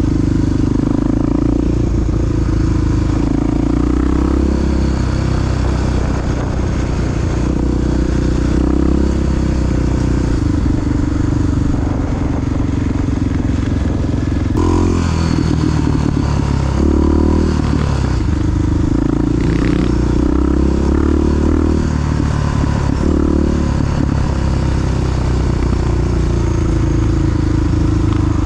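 Honda XR big-bore single-cylinder four-stroke dirt bike running under way, its engine speed rising and falling as it is ridden. There is an abrupt change in the sound about halfway through.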